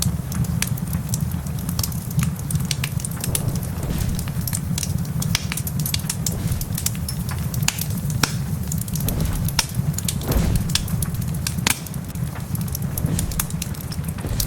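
Wood fire crackling in a fireplace, with frequent sharp, irregular pops over a steady low rumble and the patter of rain.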